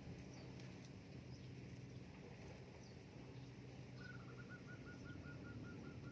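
A bird gives a fast trill of evenly spaced notes, about two seconds long, starting about four seconds in. Faint high chirps and a low steady hum run underneath.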